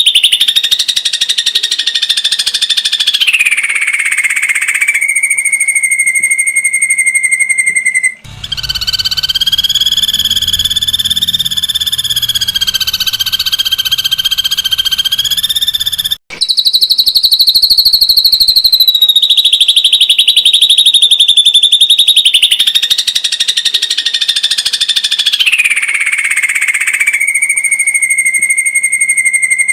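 Ashy drongo giving its rapid-fire 'tembakan' trill: a fast, unbroken run of pulses that glides down from a high pitch to a lower one, holds, then climbs back. The trill cuts off abruptly about 8 and 16 seconds in and restarts, as in an edited, looped recording.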